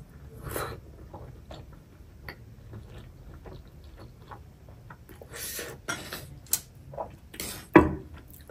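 Close-miked chewing of a paneer momo dumpling: soft wet mouth clicks and smacks, louder for a moment past the middle, with one sharp click near the end.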